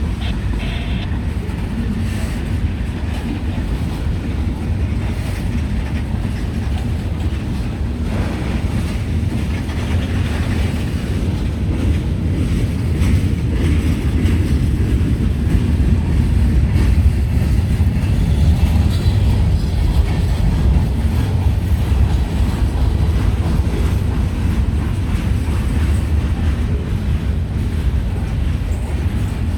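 CSX freight train's railcars rolling past on the rails, a steady low rumble that swells slightly in the middle.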